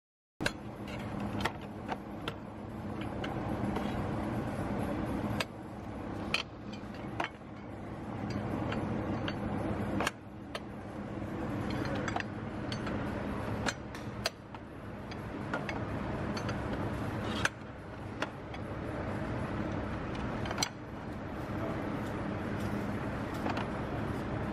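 BMW E46 M3 engine running steadily after the cooling system has been refilled. The sound is broken into short stretches a few seconds long, with sudden jumps in level between them.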